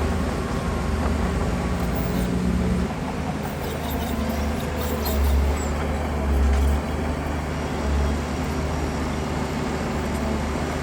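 Heavy diesel engines of earth-moving machinery running with a steady low drone that swells briefly a few times.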